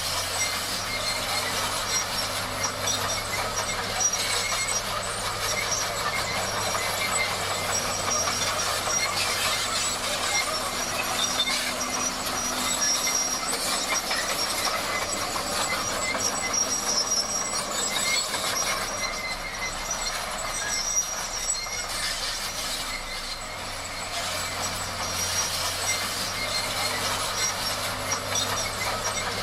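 Bulldozer at work: its diesel engine running under a continuous clatter of steel crawler tracks, with faint high squeals.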